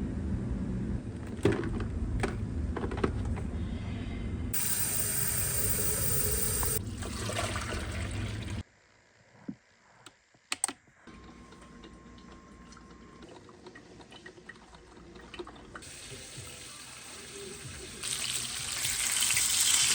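Water running from a tap in two short spells, with knocks and clicks between them.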